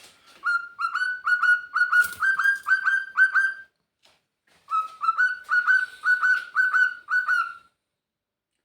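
Male cockatiel crowing: a string of short, repeated calls, each rising slightly in pitch, about three a second, in two bouts with a pause of about a second between them. A brief knock sounds partway through the first bout.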